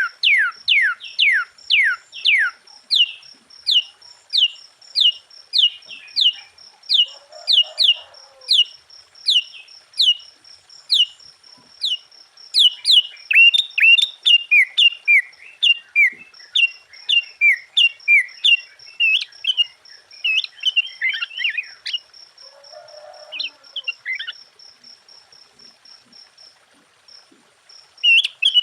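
Sooty-headed bulbul (kutilang) singing: a long run of clear, falling whistled notes, quick at first and then slower, breaking into a more varied jumble of notes in the middle before pausing near the end. A steady, rapid high ticking runs behind the song until shortly before the end.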